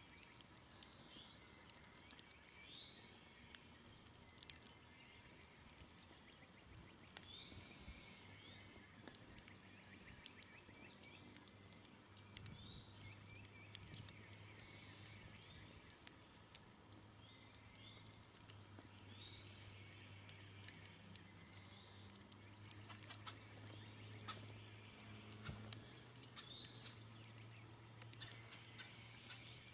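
Faint, scattered crackles and pops from a smoldering campfire. A bird calls repeatedly in the background, a short rising note every few seconds, and a low steady hum comes in about a quarter of the way through.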